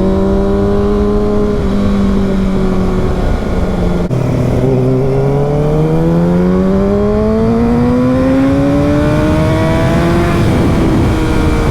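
Sport motorcycle engine under way, with wind rush over it. The engine holds steady, drops in pitch at a gear change about four seconds in, then rises steadily as it accelerates through the gear and eases off near the end.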